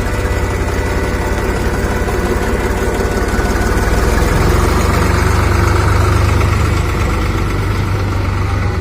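Tractor diesel engine running steadily, growing louder about four seconds in.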